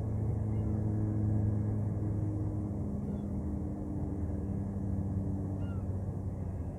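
Ship's engine running with a steady low drone. A few faint short high chirps sound over it.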